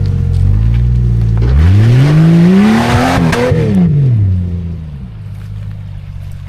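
Old Jeep Cherokee engine revved once from idle: it climbs for about a second and a half, peaks briefly, then falls back to a steady idle. The engine is being run hard enough that its catalytic converter glows.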